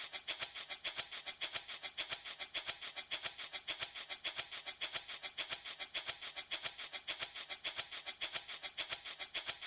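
Handmade baby rattle shaken steadily and rapidly, about six beads-on-shell strokes a second, giving a bright, even, hissing rattle.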